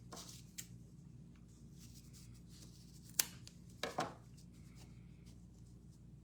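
Hands handling a stick-frame loom and its string: a small click early, a sharp click about three seconds in, then a brief rustle, over a steady low hum.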